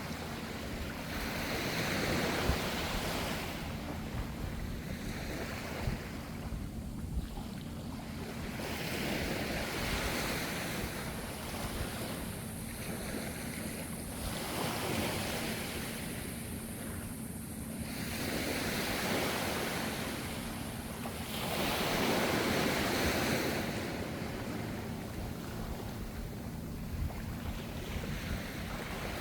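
Ocean waves washing onto the shore, the surf swelling and falling back every few seconds with a steady low rumble underneath. There is some wind on the microphone.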